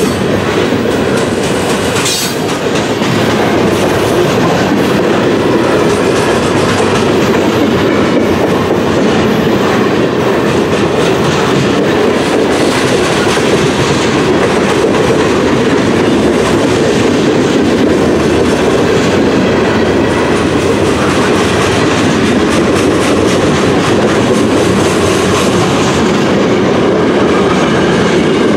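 Freight cars of a mixed manifest train, centerbeam lumber flatcars and boxcars, rolling past at steady speed: a steady rumble of steel wheels on the rails, with one sharp click about two seconds in.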